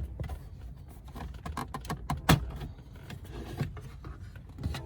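Plastic trim piece around a BMW X5's gauge cluster being worked loose by hand: scattered clicks and knocks, with one sharp snap a little over two seconds in.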